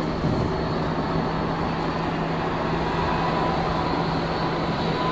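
A vehicle running steadily at close range: dense rumbling noise over a constant low hum, with a faint steady whine above it.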